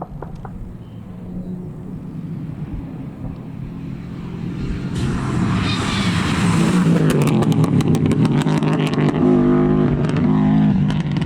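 Four-wheel-drive rally car approaching at speed, its engine growing steadily louder as it nears. The engine note steps up and down near the end. A run of sharp crackles sounds over the last few seconds.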